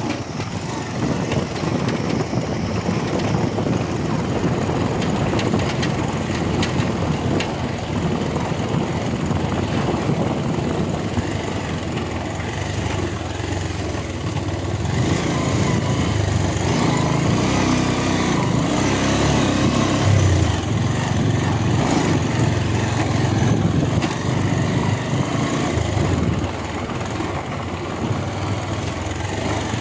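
Motorcycle engine running steadily while riding, with continuous road noise.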